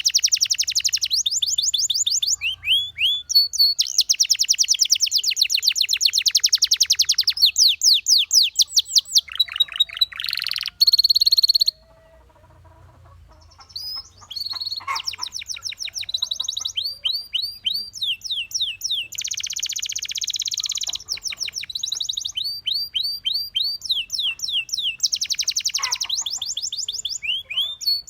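Domestic canary singing: long runs of fast trills and rapidly repeated high notes. The song breaks off for about two seconds near the middle, then picks up again.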